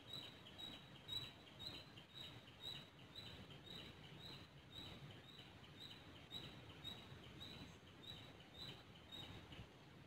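Faint high-pitched bird call, one short chirp repeated steadily about twice a second, stopping near the end, over quiet forest ambience.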